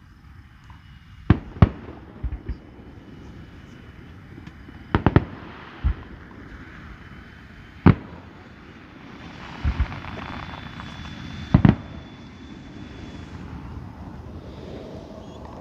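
Aerial fireworks going off: a string of sharp bangs, some in quick pairs or triples, every second or few, with a spell of crackling hiss in the middle.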